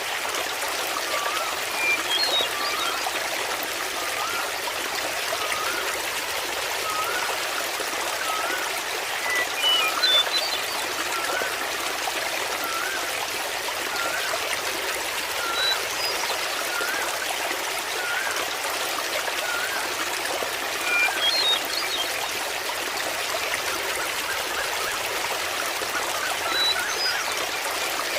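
Small waterfall trickling and splashing steadily. A short, curling note repeats about once a second throughout, and brief higher chirps come about five times.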